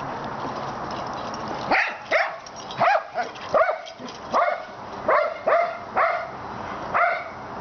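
A dog barking, about ten short barks in a quick series starting about two seconds in.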